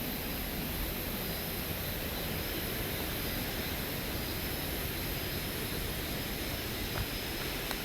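Steady, even rush of a large waterfall.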